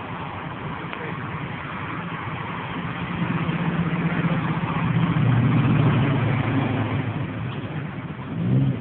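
Truck engine running, growing louder and working harder from about three seconds in and easing off near the end, over outdoor background hiss.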